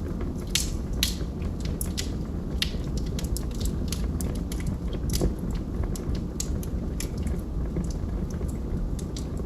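Log fire crackling: irregular snaps and pops over a steady low rumble of burning wood, with sharper pops about half a second and a second in, and again about five seconds in.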